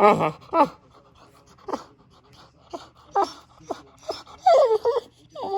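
Boxer dog vocalising with a string of short, wavering whines, a louder run of them about four and a half seconds in.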